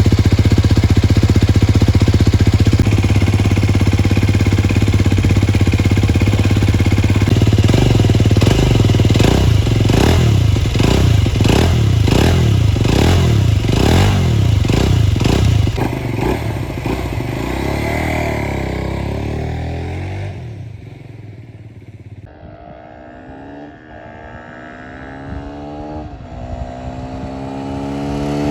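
Aprilia SX 125's single-cylinder four-stroke engine through a Giannelli Ipersport slip-on exhaust, running steadily, then revved in a string of quick blips. About twenty seconds in the sound drops much quieter, with fainter rising and falling engine notes, then grows louder again near the end.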